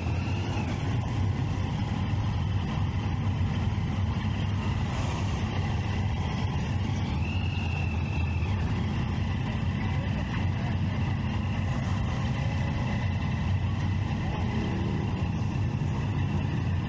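Triumph Street Triple 675's inline three-cylinder engine running steadily at a low, even pitch, with traffic around it.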